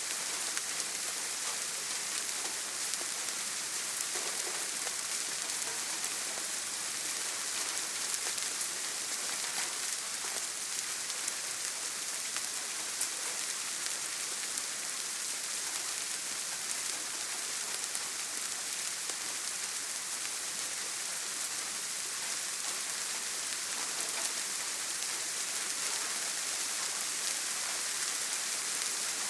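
Heavy rain falling steadily on a tin roof: a dense, even hiss with faint ticks of single drops scattered through it.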